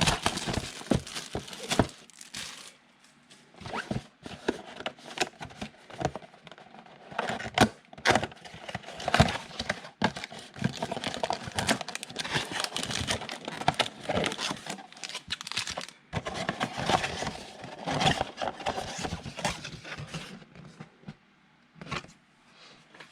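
Plastic wrapping and foil card packs from a 2020 Absolute football mega box being torn open and handled, crinkling and tearing in uneven crackles and rips.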